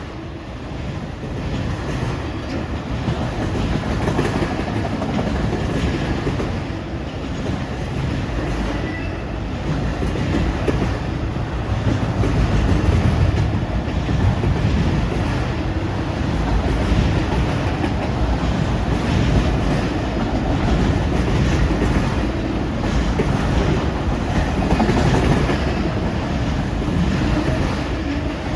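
Freight train rolling past at close range, a steady rumble with the wheels clicking over the rail joints.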